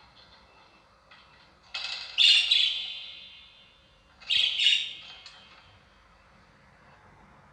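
Bird calls: a loud double call about two seconds in and another about four and a half seconds in, over fainter chirping at the start.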